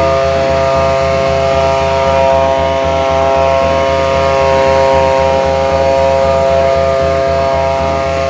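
Garland Stream 550G petrol leaf blower/vacuum engine running at a steady speed.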